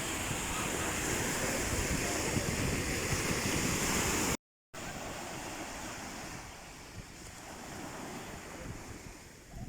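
Ocean surf washing steadily. It cuts out abruptly for a moment about halfway through, then resumes quieter.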